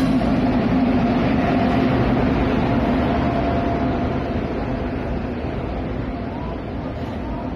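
WAP-7 electric locomotive passing alongside a platform with a steady hum that fades about halfway through, followed by its passenger coaches rolling past with a rumble that slowly gets quieter.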